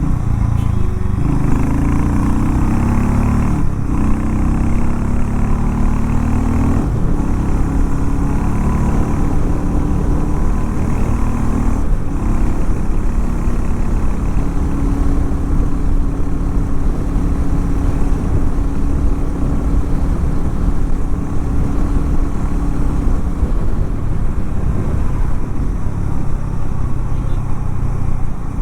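Harley-Davidson X440 T's single-cylinder engine accelerating up through the gears, its note rising and dropping back at each shift several times in the first seven seconds or so. Then it holds a steady note while cruising.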